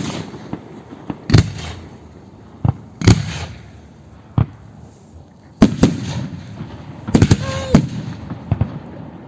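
Aerial firework shells bursting: sharp bangs about every one to two seconds with crackling between them, and a quick cluster of bursts a little past the seven-second mark.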